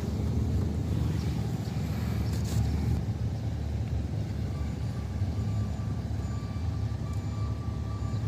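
Steady low mechanical rumble, with a brief hiss about two and a half seconds in.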